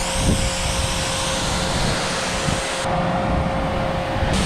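Steady engine-driven machine noise with a constant whine running through it. The top of the hiss drops out for a moment about three seconds in.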